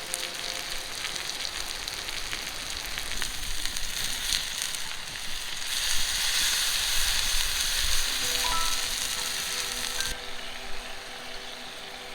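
Food sizzling and spitting in a hot pan, a dense crackling hiss that grows louder for a few seconds in the middle. Soft background music comes in during the second half.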